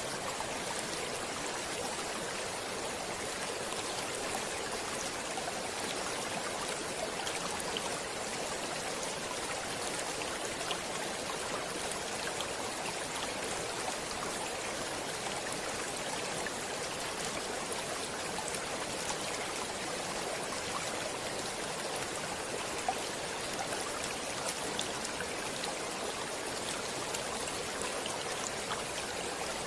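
Stream water flowing steadily, a continuous rushing with faint scattered droplet ticks.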